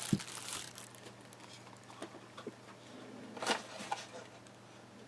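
Soft handling noises of a puzzle being taken out of its packaging: light rustling and a few small clicks and taps, with a louder rustle about three and a half seconds in, over a faint low hum.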